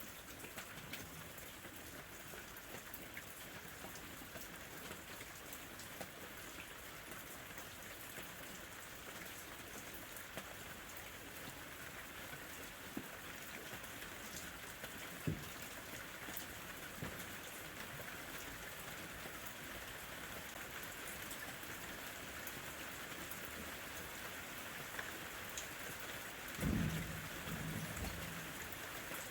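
Steady summer rain falling on surfaces, an even hiss with scattered drop ticks. Near the end comes a brief low rumble.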